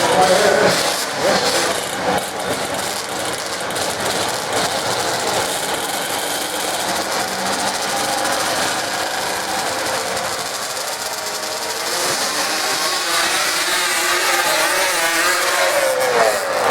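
Dirt drag racing vehicles' engines running and revving, with the engine pitch sliding up and down near the end.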